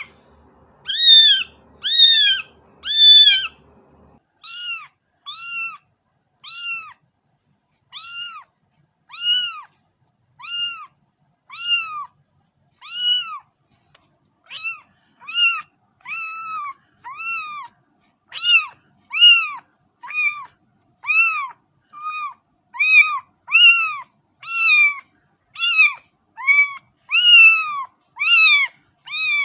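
Kitten meowing over and over, about one short rise-and-fall meow a second. The first three meows are louder and higher-pitched than the rest.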